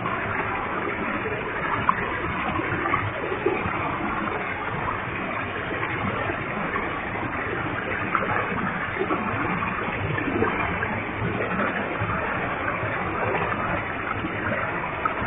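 Waterfall with a heavy flow of water falling and splashing, a steady rush with small irregular splashes.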